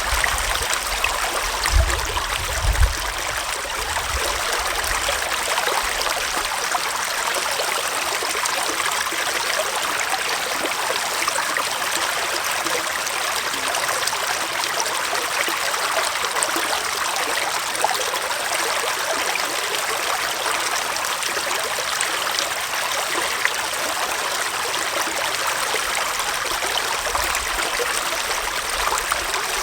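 Forest stream running with a steady rush and trickle of water, and two brief low bumps about two and three seconds in.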